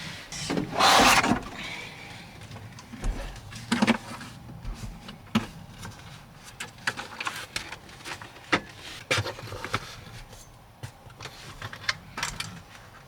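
Scattered clicks and knocks of objects being handled, with a loud rustle about a second in.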